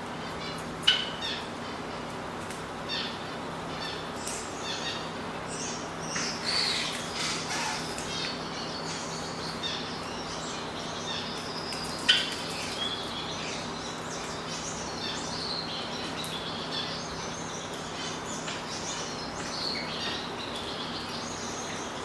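Many small cage birds chirping and calling together in an aviary, a dense overlapping chatter of short high calls. Two sharp, loud sounds stand out, one about a second in and one about twelve seconds in, over a faint steady low hum.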